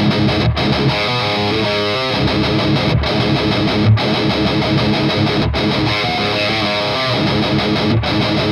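Electric guitar played through a Skull Driver V2 overdrive pedal into the crunch channel of an EVH Iconic tube amp: a thick, overdriven riff with clear ringing notes. The riff stops briefly about every two and a half seconds, and short runs of single notes come through twice.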